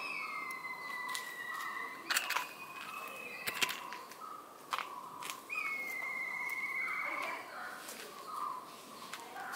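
Birds calling: two long whistled notes that slide slightly down in pitch, over steady chirping, with a few sharp cracks about two, three and a half and nearly five seconds in.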